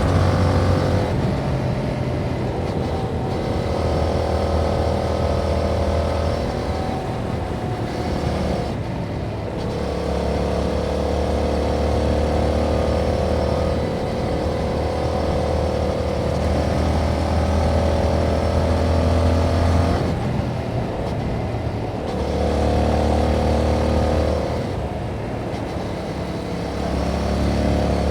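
2021 Yamaha MT-07's 689 cc parallel-twin engine running through its stock exhaust while riding. It pulls steadily in gear, and the note drops off and picks back up several times as the throttle is closed and reopened.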